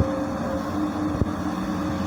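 Komatsu PC200 hydraulic excavator's diesel engine running steadily, with two short knocks, one at the start and one about a second later.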